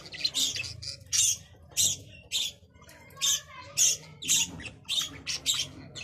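Budgerigars chirping: short, sharp, high calls repeated about twice a second.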